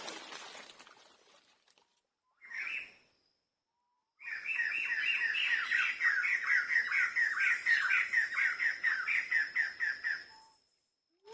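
A bird calling: one short call, then a long run of quick repeated chirps, about six a second, that stops about a second before the end, with a thin steady high tone behind them.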